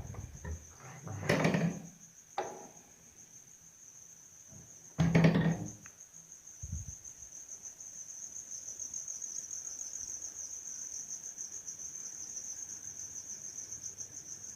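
Crickets or similar insects trilling steadily, a high, finely pulsing 'kirr' that grows stronger about halfway in. Two loud knocks cut through it in the first few seconds, with a softer one after.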